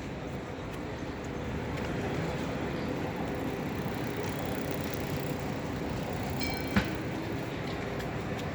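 Melbourne tram running along the street, a steady rumble of steel wheels on the rails, with one sharp knock about seven seconds in.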